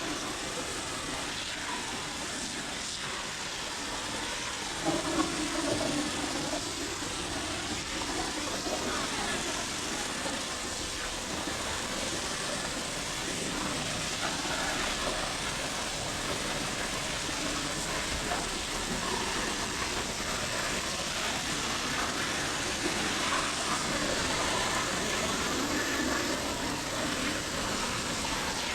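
Pressure washer spraying water onto a car: a steady hiss of spray.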